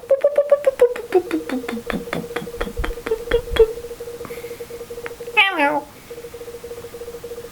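Synthesized cartoon sound effects: a rapid run of clicking pulses sliding down in pitch over a steady held tone, then a quick falling, meow-like glide about five and a half seconds in.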